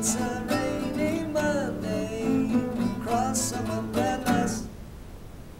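Closing bars of a song on strummed acoustic guitar. The music stops a little under five seconds in, leaving a faint hiss.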